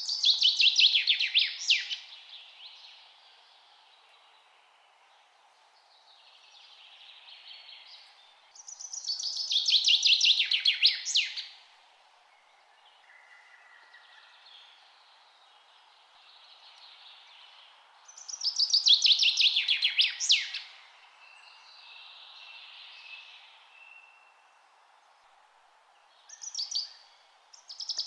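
A songbird repeating one song about every nine seconds, four times: each song is a fast trill of notes falling in pitch that ends in a sharp downward flourish. Softer calls of other birds come between the songs, over a steady faint background hiss.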